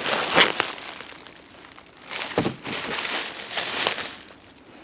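Cardboard boxes and packing being handled, rustling and crinkling in two stretches: a short one at the start and a longer one from about two to four seconds in.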